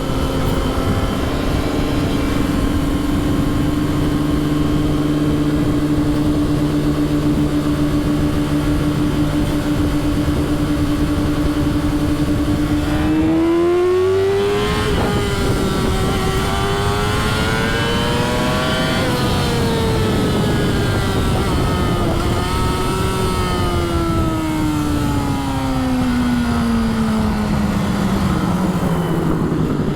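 A vehicle engine holds one steady note for about thirteen seconds, then revs up and wavers before its pitch slides slowly down through the last several seconds.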